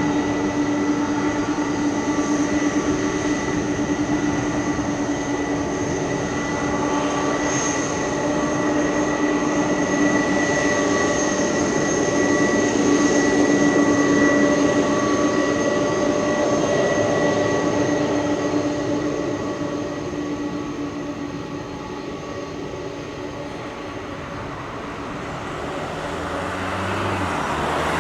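Airbus A300-600R freighter's Pratt & Whitney PW4158 turbofans running with a steady whine and rumble, fading away over the last several seconds.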